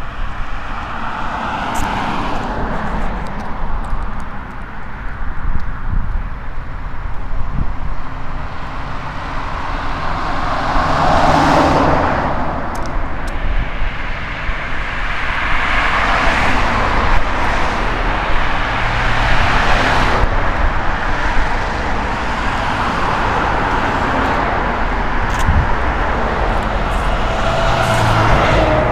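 Road traffic: cars passing one after another over a steady low rumble, the loudest pass a little before midway.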